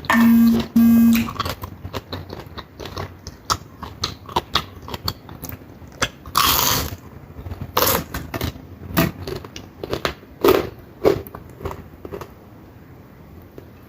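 Close-up chewing and crunching of crisp fried dried fish and dried squid, with small mouth clicks and smacks. Just at the start two short, loud, steady beeps sound, like a horn.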